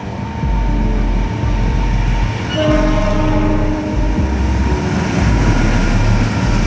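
Taksaka passenger train running past with the steady rumble of the locomotive and wagons, and its horn sounding about two and a half seconds in.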